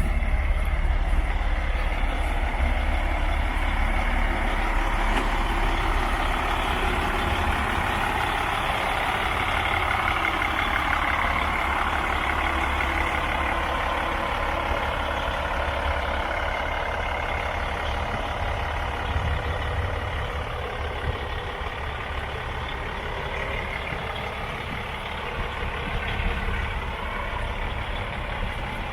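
A heavy truck running: a steady low engine rumble with a broad rushing noise over it, easing off a little toward the end.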